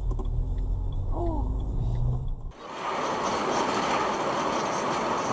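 Low rumble of a car's engine and road noise heard from inside the cabin. About two and a half seconds in it cuts abruptly to a steady hiss of road and traffic noise.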